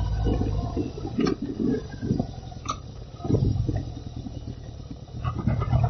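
Wind rushing and buffeting over a handlebar-carried camera on a moving 1979 Yamaha XS1100, with the low drone of its inline-four engine. The drone comes and goes, dropping back about a second in and returning twice.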